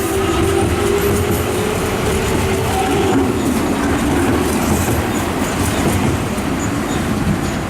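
Nankai electric train running through the station, with a loud rumble and wheels clattering on the rails. A motor whine falls slightly in pitch over the first few seconds.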